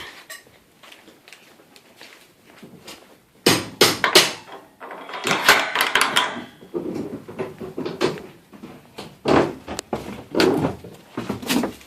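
Irregular knocks, clunks and scraping of garage door parts and tools being handled: a cluster of sharp knocks a few seconds in, a longer scrape in the middle, then several separate clunks near the end.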